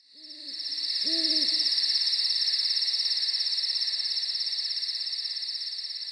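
Night ambience: two low hoots about a second apart near the start, over a steady high-pitched, rapidly pulsing insect trill that slowly fades.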